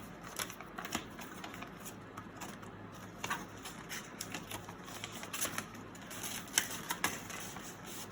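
Paper banknotes and paper envelopes being handled as cash is stuffed into them: irregular soft rustles and light taps, with a sharper tick about six and a half seconds in.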